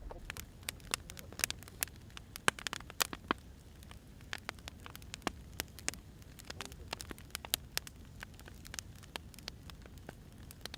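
Wood fire crackling: irregular sharp pops and snaps of burning firewood over a low, steady hiss.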